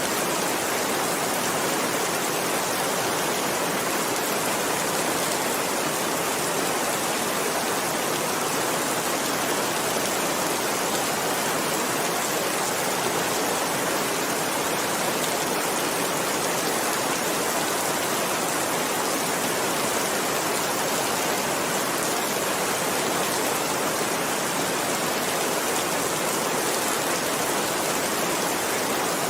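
Steady, continuous rain, an even hiss that does not change.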